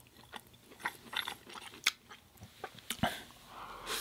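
Close-up mouth sounds of chewing food, with scattered wet clicks and smacks and a sharper click just before the middle and another about three seconds in.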